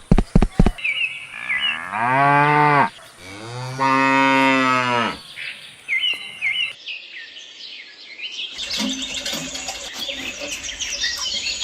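A cow mooing twice, each moo a long low call of about a second that rises and falls, with short high bird chirps around them. A quick run of clicks comes in the first second, and in the last few seconds a busy chorus of chirping birds takes over.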